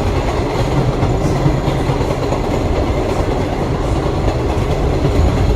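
Vintage New York City subway train running at speed, heard from on board: a steady, loud rumble of wheels on rail with clickety-clack over the rail joints.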